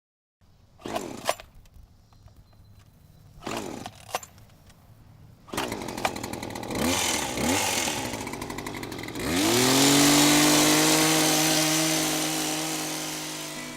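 Greenworks 82-volt battery-powered power tool running in short bursts of the trigger, then spinning up with a rising whine about two-thirds of the way in to a steady run that fades toward the end.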